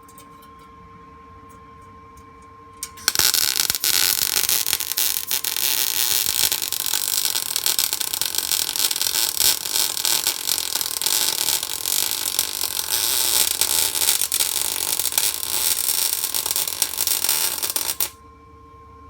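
MIG welder arc crackling steadily while a weld bead is run, starting about three seconds in and cutting off suddenly near the end. A steady hum with two tones is heard before and after the weld.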